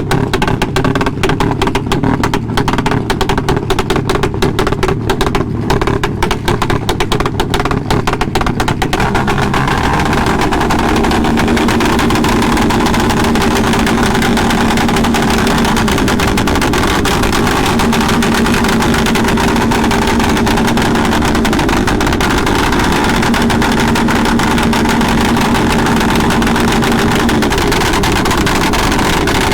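A motorcycle engine runs loud and crackling for about the first nine seconds. Then a steady rush of noise takes over, with a low engine hum that comes and goes three times.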